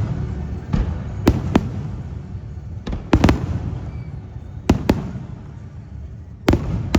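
Aerial fireworks shells bursting: about ten sharp bangs, often two in quick succession, over a continuous low rumble of echoing blasts.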